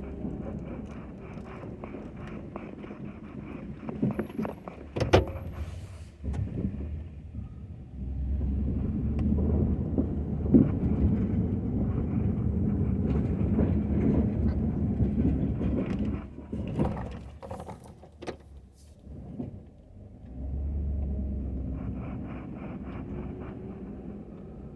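Ford F-250 pickup's engine running steadily, swelling louder for several seconds in the middle, with a few sharp clicks and knocks about four to six seconds in.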